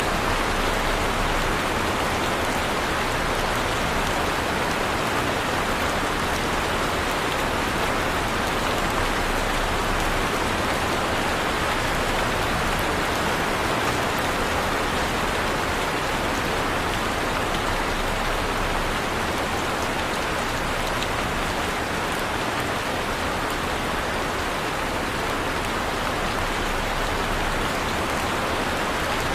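Heavy rain falling steadily, a dense, even hiss of rain on surfaces with no thunder.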